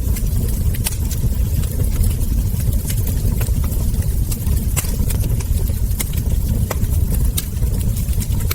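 Wood fire crackling: sharp, irregular pops and snaps from burning logs, several a second, over a steady low rumble of the flames.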